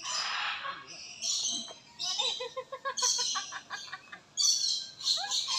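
Many small birds chirping and twittering in quick, high calls, over and over, with a burst of people laughing partway through.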